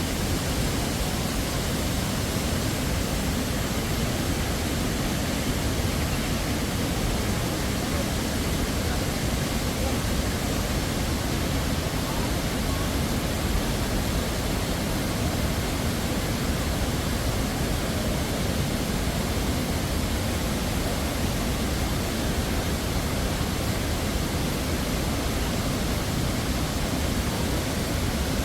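A waterfall rushing: a steady, unbroken noise of falling water.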